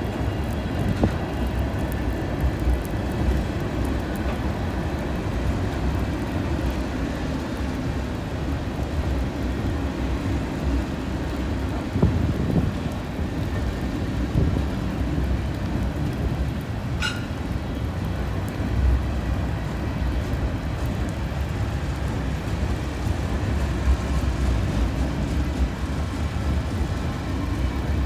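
Freight train's open hopper cars rolling across a steel railroad trestle overhead: a steady low rumble with occasional louder knocks, and a brief high squeal a little over halfway through.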